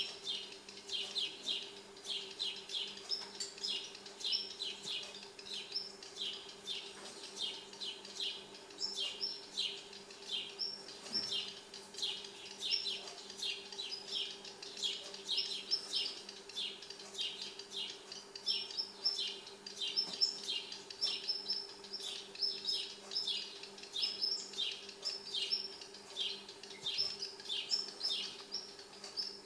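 Small birds chirping without a break: rapid short, high chirps, about three a second, over a faint steady low hum.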